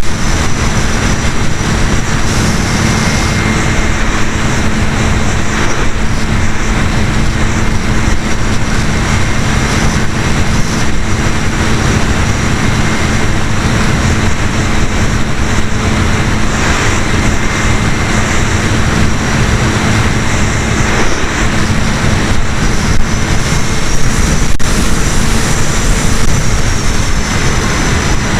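Electric motor and propeller of an E-flite Apprentice RC trainer plane running steadily, heard from a camera mounted on the plane. A steady tone sits over a loud, even rush of noise.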